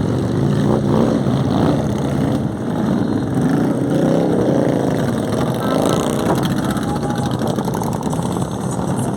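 Motorcycle engines running, with voices mixed in.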